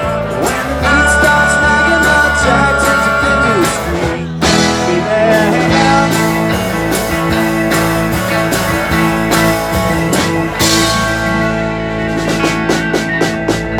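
Live rock band playing an instrumental passage led by guitar, with a run of sharp, rhythmic hits near the end.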